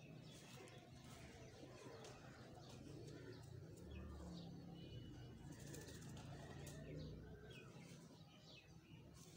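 Pigeons cooing faintly, with a few scattered high chirps.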